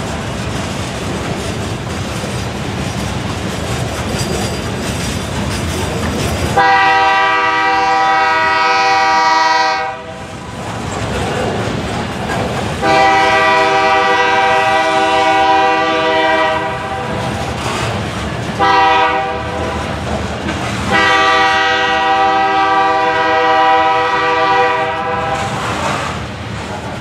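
Freight train's covered hopper cars rolling past with steady wheel-on-rail noise. About six seconds in, a multi-chime locomotive horn sounds two long blasts, a short one and a final long one, the standard grade-crossing signal, over the passing train.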